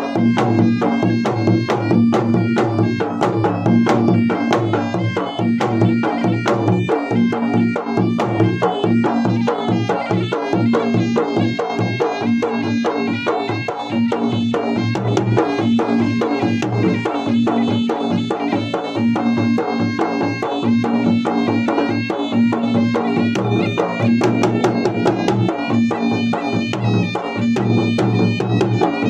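Traditional Makassar gendang drums from Maros played for a wedding, beating in a fast, dense rhythm, with a steady held melody line sounding over the drumming.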